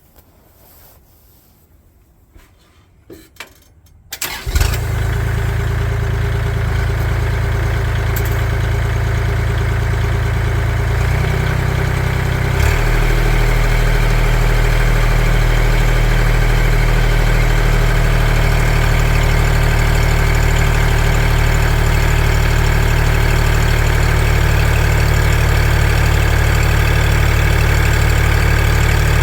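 An engine starts about four seconds in and then runs steadily. About eight seconds later its speed steps up a little, and it runs slightly louder from then on.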